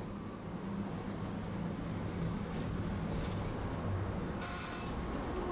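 Tosaden streetcar running, a steady low rumble of its motors and wheels on the rails, heard from inside the car. A little over four seconds in comes a brief high-pitched hiss lasting under half a second.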